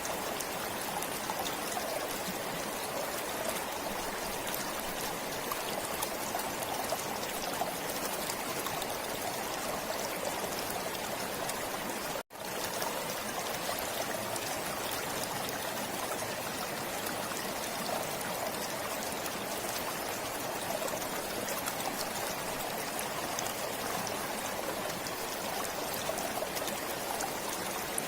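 Forest stream flowing steadily, water trickling and splashing over stones; the sound cuts out for an instant about twelve seconds in.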